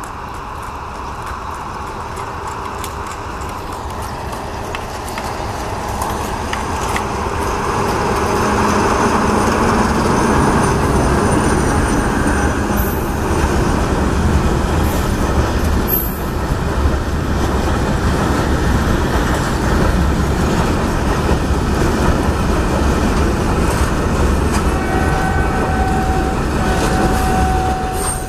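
Diesel-electric locomotive 29081, a converted TGM diesel-hydraulic, approaching at the head of a bulk-sugar hopper train and running past close by. It grows louder over the first several seconds and then holds as the hopper wagons roll past. A steady high tone comes in near the end.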